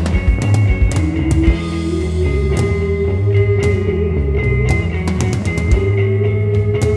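Psychedelic rock band playing an instrumental passage: electric guitar holding a long note that bends slowly upward, over bass and a drum kit with regular cymbal and drum hits.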